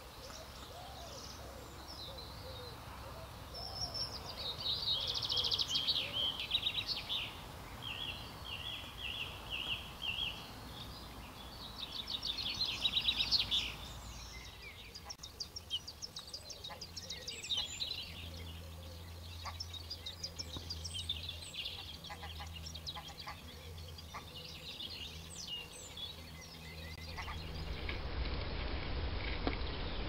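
Small songbirds singing and calling, with short phrases of rapid trilled notes every few seconds over a faint background hiss. A faint low hum joins about halfway through.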